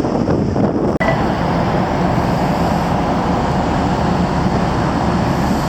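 Wind on the microphone, then, after a sudden cut about a second in, the steady mechanical drone of the car ferry Takachiho under way, with a low hum.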